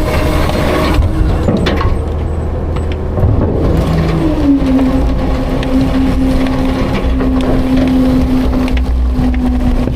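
Autocar-Heil Freedom front-load garbage truck running, with knocks and rattles in the first few seconds and a steady whine that dips slightly in pitch about four seconds in and then holds.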